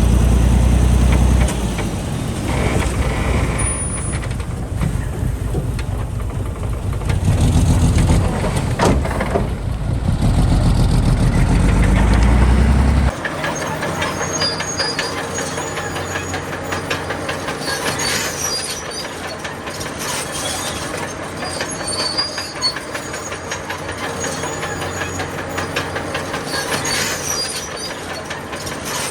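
Heavy diesel engine of a bulldozer working, its note rising and falling under load. About 13 seconds in the deep engine sound drops off suddenly, leaving a lower rumble with repeated high metallic squeals and a fast clatter.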